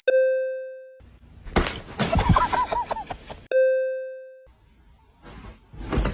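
A bright chime sound effect, one ringing tone with overtones, struck twice: at the start and again about three and a half seconds in, each dying away over about a second. Between and after the chimes come stretches of noisy clip audio.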